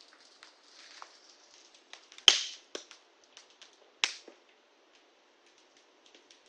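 Wood fire crackling, with scattered small pops and two loud sharp cracks about two and four seconds in.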